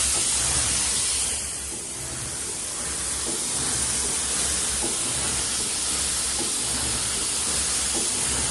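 Steady gas hiss from the flame pre-treatment burners of an automatic glass-bottle screen printer, over the low pulsing hum of the running machine. The hiss dips briefly about two seconds in.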